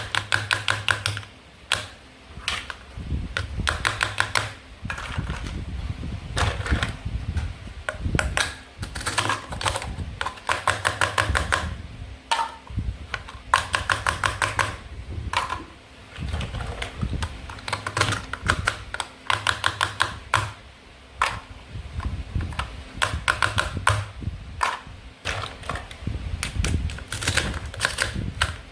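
Toy knife sawing through plastic play-food fruit and vegetables: bursts of rapid clicking about a second long, repeating over and over.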